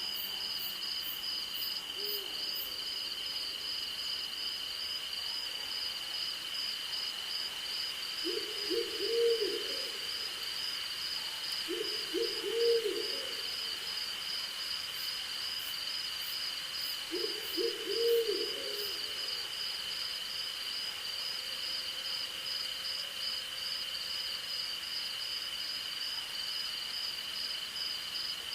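An owl hooting three times in the middle of the stretch, each call a short run of low hoots, a few seconds apart. Behind it is a steady, high-pitched chorus of crickets and insects, one of them trilling in a fast pulse.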